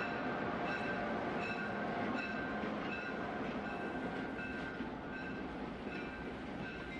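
EMD GP9 diesel locomotive sound running steadily with a train, with a short high ding repeating about every three-quarters of a second. The sound eases slightly toward the end.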